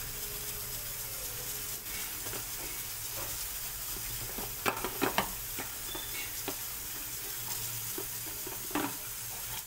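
Mustard-paste gravy sizzling steadily in a steel kadai as pieces of eggplant are dropped into it, with a few short knocks about halfway through and another near the end.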